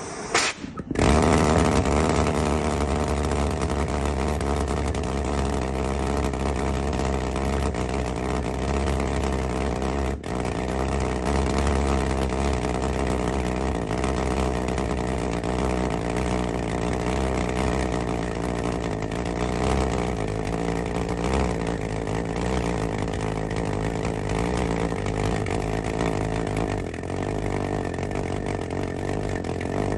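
Homemade valveless pulsejet engine with no diffuser, burning methyl hydrate, running continuously: a loud, steady, rapid pulsing drone with a deep low throb that starts about a second in.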